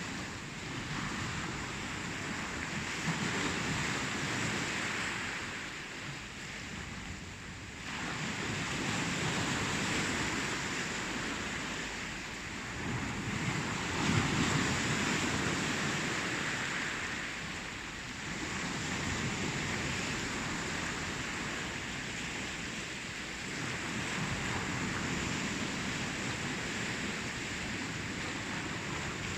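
Ocean surf: waves breaking and washing in a continuous rush, swelling and easing every four to six seconds.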